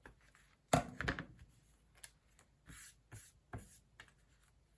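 A few light knocks and soft rustles as a book cover and paper are handled on a work table, the loudest knock a little under a second in.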